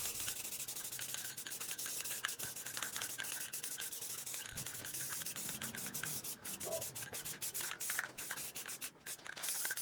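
Clear coat being worked onto a wooden caddy by hand, a rapid run of short rubbing strokes that goes on and stops near the end.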